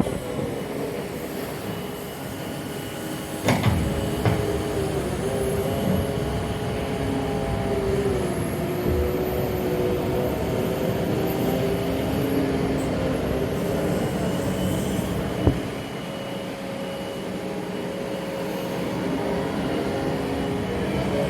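Heavy diesel machinery unloading spoil from freight wagons, engines running steadily with slow shifts in pitch. A loud knock comes about three and a half seconds in, and a shorter one around fifteen seconds.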